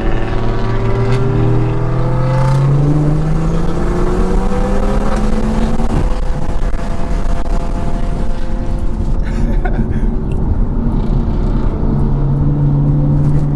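Turbocharged inline-six engines accelerating hard, heard from inside a car with the window open over heavy wind and road noise. One engine climbs steadily in pitch for about six seconds, drops back, and starts climbing again near the end.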